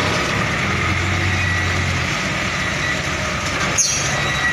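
Truck engine running with a steady low hum that weakens about two seconds in, over a constant hiss. Near the end there is a brief sound that falls quickly in pitch.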